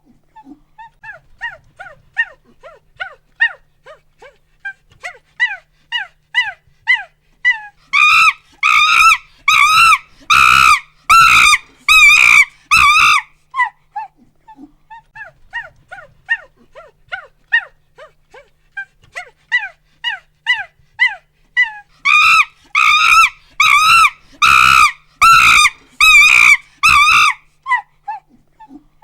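Chimpanzee pant-hoots, twice: a run of quick breathy hoots climbing in pitch and loudness builds to a climax of loud screams, then falls back into quieter hoots.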